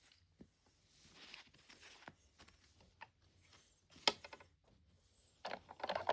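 Miniature plastic grocery items being handled and set into a small toy refrigerator: scattered light clicks and rustling, with a sharper click about four seconds in and a busier run of clatter near the end.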